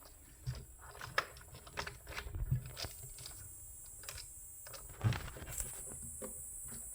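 Irregular light clicks and taps of small screws, a screwdriver and a plastic micro switch being handled and fitted, with a louder knock about five seconds in.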